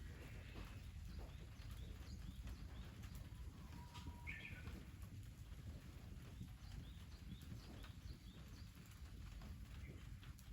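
Faint outdoor ambience: small birds calling in short chirps, with one louder call about four seconds in, over a low steady rumble and scattered light clicks.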